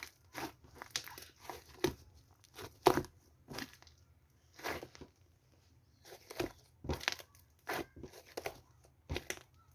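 Irregular short rustling and crinkling noises, a dozen or so brief scrapes and crackles at uneven intervals, with a faint low hum underneath.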